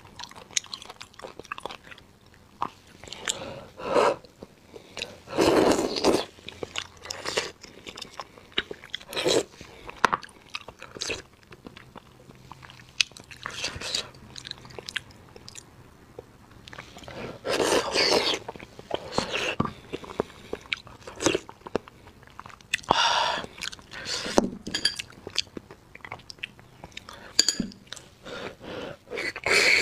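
Close-miked mouth sounds of eating spicy beef bone marrow: wet chewing and biting with irregular small clicks, louder and longer for a few moments about 5, 17 and 23 seconds in.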